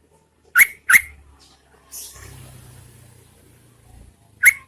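Yellow-vented bulbul giving short, sharp call notes in two quick pairs, one pair about half a second in and another at the very end, with a faint hiss between them.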